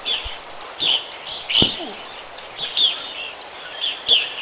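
A bird chirping repeatedly: short, quickly falling notes, about one or two a second.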